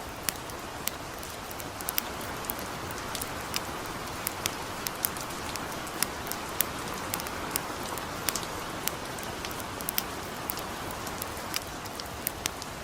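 Steady light rain, a soft even hiss, with sharp irregular crackles and pops of a wood campfire, several a second.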